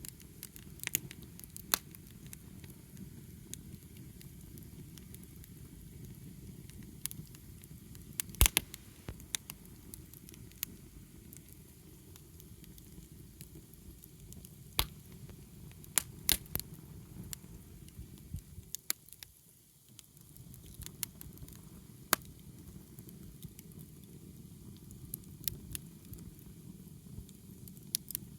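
Wood bonfire burning, with a steady low rush and sharp crackles and pops at irregular intervals. The loudest pop comes about eight seconds in.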